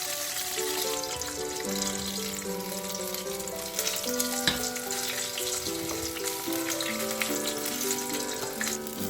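Corn-starch-coated chicken pieces frying in hot oil: a steady sizzle full of small crackles, with one sharper tap about halfway through. Gentle background music plays over it.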